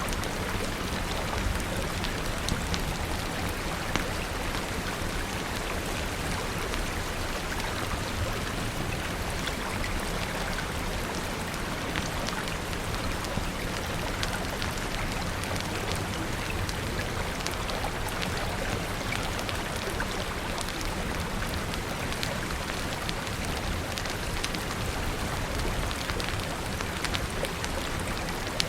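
Steady rain with a wood fire crackling: an even hiss of rainfall dotted with scattered sharp pops and ticks.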